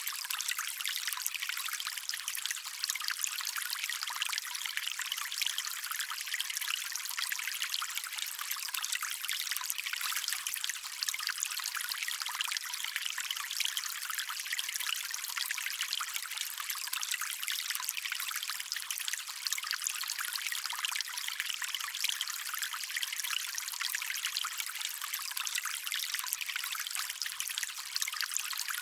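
Shallow stream water running and trickling over stones in a steady, even babble, with a light splashy texture and no deep rumble.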